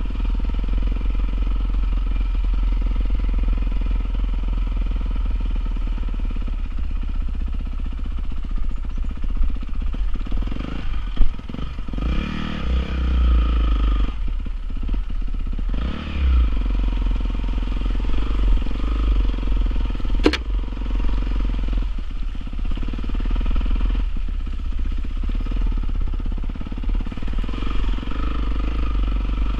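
Honda CRF450R's single-cylinder four-stroke motocross engine running, its revs rising and falling several times over a steady low rumble. A single sharp click comes about twenty seconds in.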